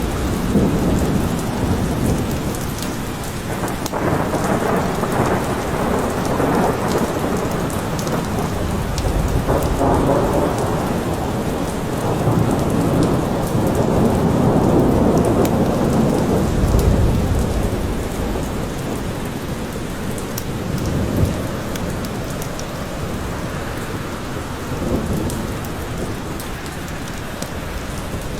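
Steady rain falling in a forest, with low rolling thunder that swells and fades several times.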